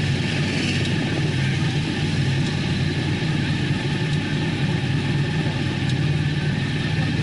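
Sport motorcycle engines idling steadily at a standstill, a constant low engine note that neither rises nor falls.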